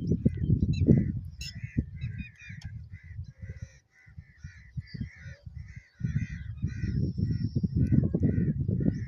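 Birds calling over and over, short calls about two or three a second, over a heavy low rumble on the microphone that fades almost away about four seconds in and comes back strongly about six seconds in.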